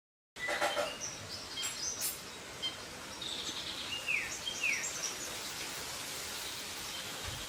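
Several birds chirping and calling over a steady outdoor hiss, starting abruptly just after the beginning, with two quick downward-sliding whistles about four seconds in.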